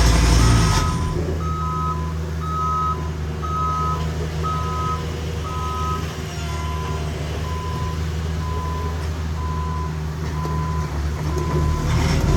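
Backup alarms on heavy paving equipment beeping, two at slightly different pitches, each about once a second; the higher one stops about halfway through and the lower one keeps on until near the end. Under them is a steady diesel engine drone, loudest at the start and near the end.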